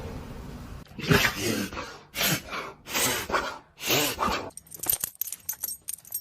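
A dog sneezing four times in a row, about a second apart, followed by a run of quick, light metallic jingling clicks.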